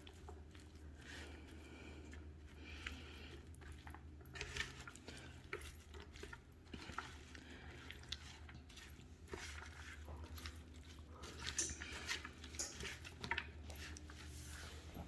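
Soft food-handling sounds: quiet squishy rustling and small scattered clicks of food and utensils against a dish, over a faint steady low hum.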